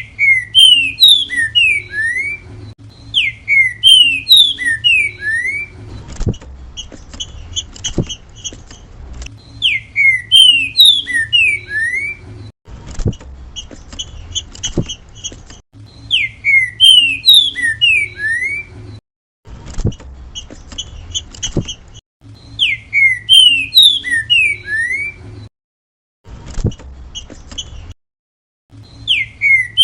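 Green-winged saltator (trinca-ferro) singing its 'grego mole boi' song: a loud whistled phrase of quick slurred notes repeated every few seconds, with quieter stuttering notes between the phrases. A low hum and a few clicks run underneath.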